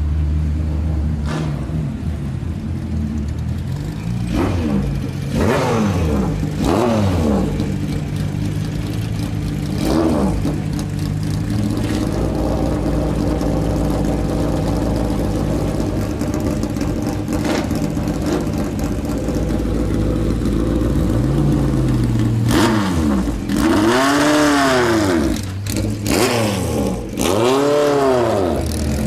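BMW M12/7 2.0-litre four-cylinder Formula 2 racing engine idling with a steady, lumpy note and revved in short throttle blips that rise and fall in pitch, a few early on and a quick run of them in the last several seconds.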